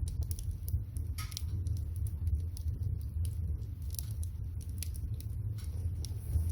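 Water boiling in a pot over a wood fire: a steady low rumble with scattered sharp crackles and pops from the burning firewood.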